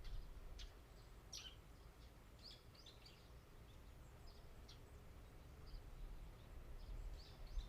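Faint birds chirping in short, scattered calls over a low steady rumble.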